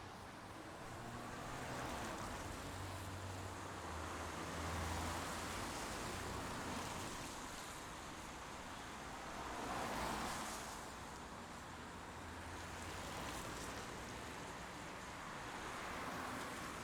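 Steady rain noise that swells and eases every few seconds.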